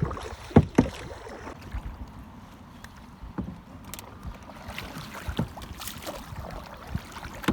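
Canoe being paddled: two sharp knocks, a little over half a second in, as a paddle hits the canoe, then quieter clicks and light water sounds from the strokes.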